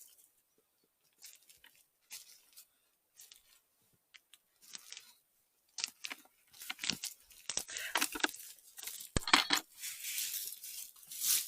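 Rustling and crackling of dry leaves, grass and twigs on the forest floor, scattered at first and becoming dense about halfway through, with a sharp snap a little after two-thirds of the way.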